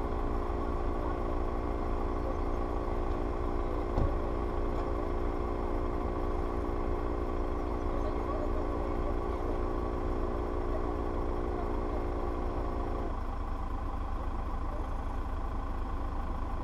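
An off-road SUV's engine idling steadily, with a steady hum of several even tones over a low rumble; the hum cuts off suddenly about thirteen seconds in. A single knock about four seconds in.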